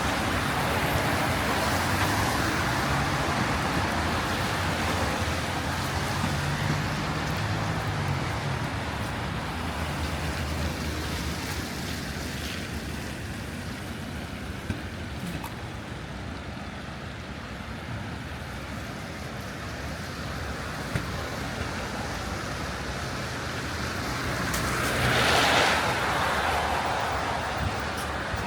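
City street traffic on wet roads: a steady hiss of tyres with a low engine hum. Near the end a vehicle passes close, its tyre hiss swelling and fading.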